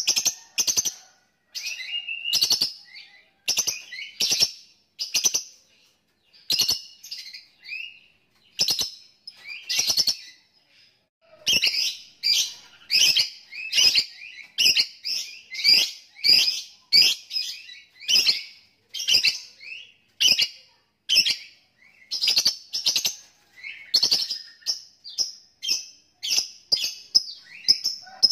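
Lovebird chattering in short, shrill bursts, one or two a second, with brief pauses at first and coming almost without a break from about halfway through.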